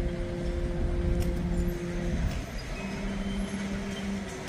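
Freight train of open hopper cars rolling slowly past, a steady low rumble from the wheels on the rails. A couple of held steady tones ride over it, dropping to a lower pair about halfway through.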